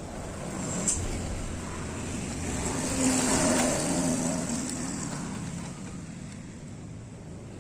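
Motorcycle engine of a homemade motorcycle rickshaw running as it moves, getting louder to a peak a few seconds in and then fading away.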